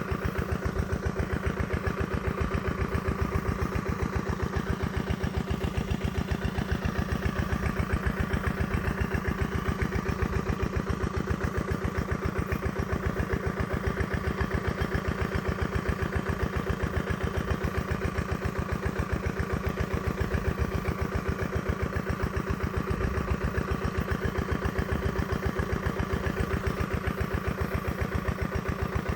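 An engine idling with a steady, even, rapid chugging beat.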